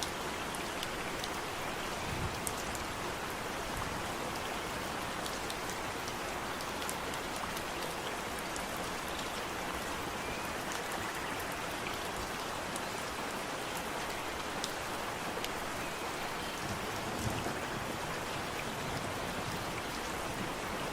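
Steady rain falling, a continuous even hiss with scattered close drops ticking through it.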